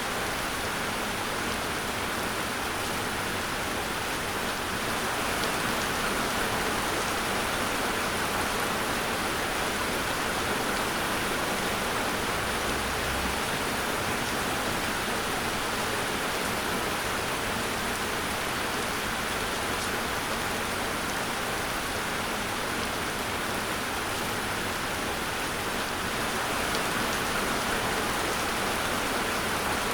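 Steady rainfall, an even hiss of rain with no distinct drops or thunder standing out.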